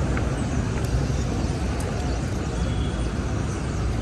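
Steady city street traffic: a continuous low rumble of passing vehicles, with a few faint brief high squeaks.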